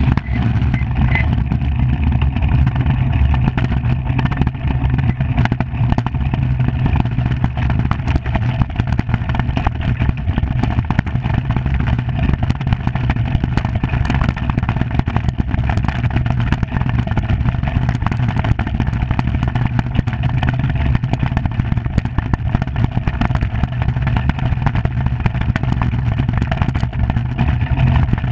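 Skimmer iceboat sailing at speed: a loud, steady low rumble of the runners on the ice and the rushing air, with light scattered clatter.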